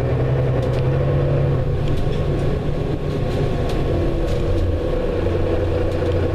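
Bus engine running, heard from inside the bus: a steady low drone with light clicks and rattles.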